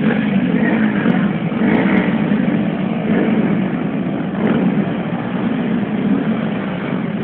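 Car engines running, a steady loud din with no single engine standing out.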